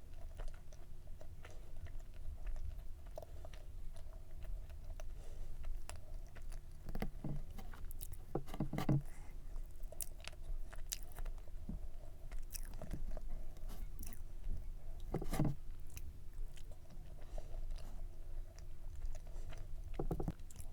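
Close-miked chewing and biting of layered cake: soft mouth clicks throughout, with a few louder bites spaced several seconds apart.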